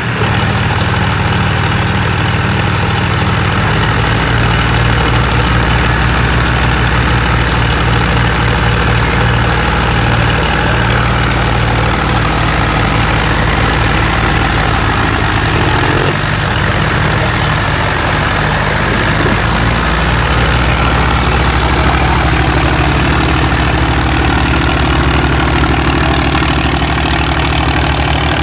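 Tractor diesel engine running steadily at a low, even speed with a pulsing low-pitched note.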